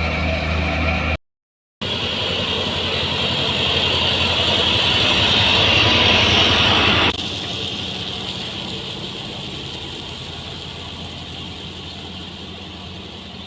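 Construction machinery engine running, in edited clips. A steady engine hum breaks off about a second in. After a short silence, a louder hissing machine sound builds, drops sharply about seven seconds in, then slowly fades.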